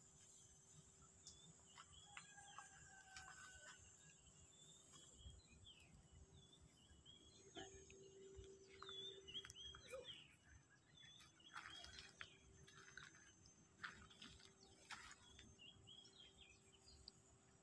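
Faint, scattered bird chirps over a quiet background, with a steady high-pitched whine beneath them.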